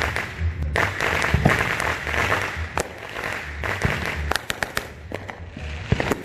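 Fireworks crackling: a dense sizzling crackle for about three seconds, thinning after that into a run of sharp separate pops.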